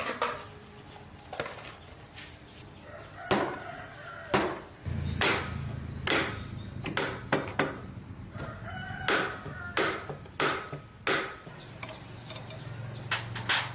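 Repeated sharp knocks and clanks of hand tools working on a motorcycle wheel and tire, irregular and spread throughout. A low steady hum of a motor comes in about five seconds in and carries on.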